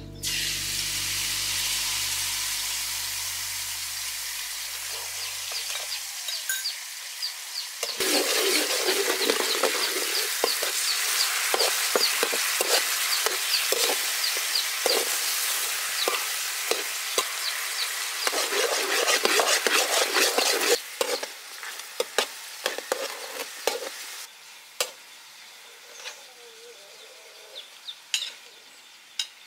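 Pork ribs in a red sauce sizzling loudly in hot oil in a wok, stirred with a metal ladle that scrapes and clinks against the pan. The sizzle gets louder about eight seconds in. Near the end it dies down, leaving scattered clinks of ladle and plate as pineapple and bell peppers go in.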